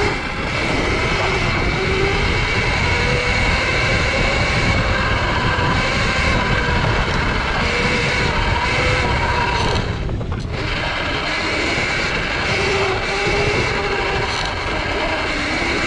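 Sur-Ron electric dirt bike on the move: a motor whine that rises and falls with speed over a steady rushing noise, with a brief dip about ten seconds in.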